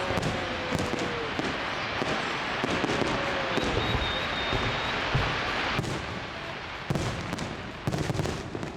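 Fireworks going off in a dense, continuous volley that stops abruptly about six seconds in, with a faint high whistle partway through. Then come a few separate bangs, near seven and eight seconds in.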